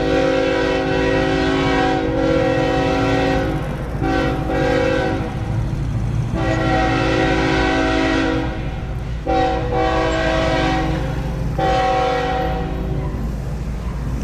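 Diesel freight locomotive's air horn sounding five blasts, the first and third the longest, over a steady low rumble from the train.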